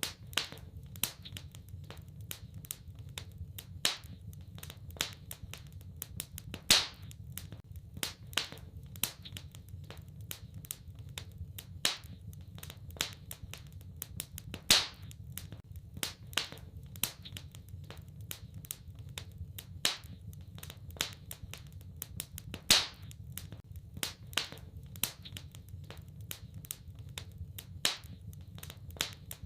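Wood fire in a fireplace crackling: a stream of irregular small pops and snaps, with a louder sharp pop every few seconds, over a low steady rumble.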